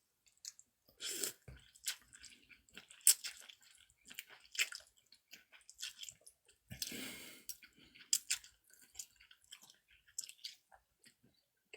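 A person chewing and eating close to the microphone: irregular wet clicks and smacks, with one longer, noisier burst about seven seconds in.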